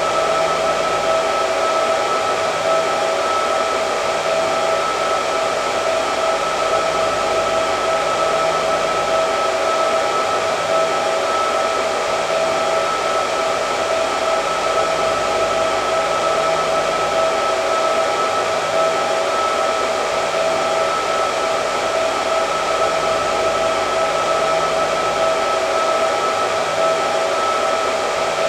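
Hair dryer running continuously, a steady rush of air with a constant high hum from the motor.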